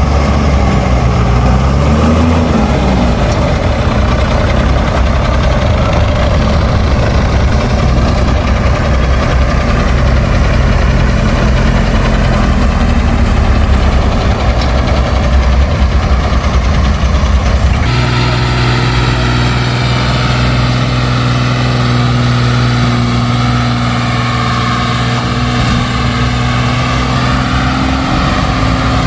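A heavy machine's engine running steadily. About two-thirds of the way through, its tone changes abruptly to a different steady pitch.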